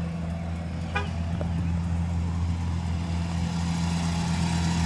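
Car engine idling with a steady low hum, with a brief short chirp about a second in.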